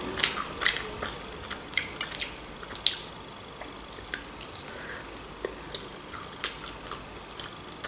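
A person chewing a crispy breaded chicken wing close to the microphone, with irregular wet mouth smacks and clicks, a few of them louder.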